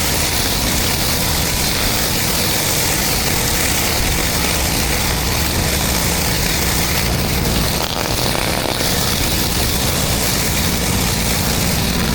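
Engine-driven pressure washer running steadily, with the constant hiss of high-pressure water spraying on concrete.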